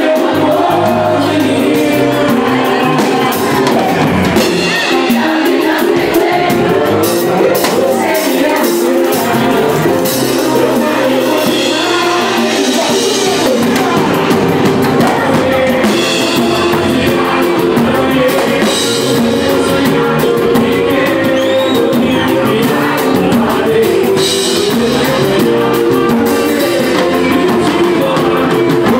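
Live samba band playing with singing and percussion, loud and continuous.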